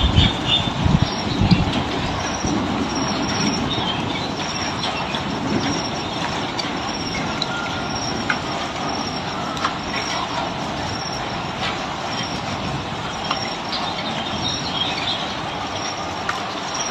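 Steady rush of falling water, with short bird chirps now and then above it.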